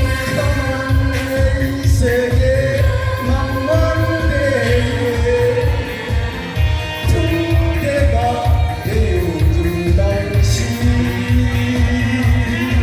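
A singer performing a Korean pop song over backing accompaniment with a steady, heavy bass beat.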